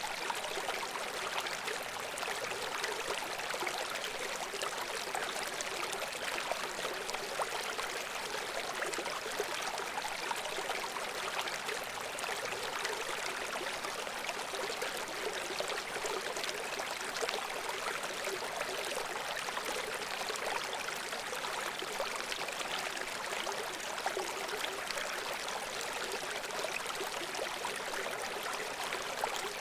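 A babbling brook flowing: a steady, even rush of running water, bright and hissy with almost no deep rumble.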